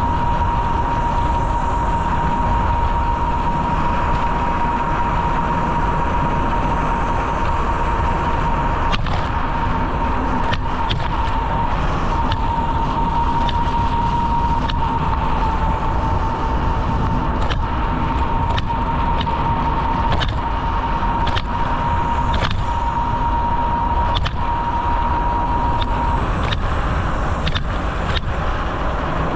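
Wind rushing over the microphone of a moving bicycle, with a steady high whine that stops near the end. Scattered clicks and rattles begin about a third of the way in.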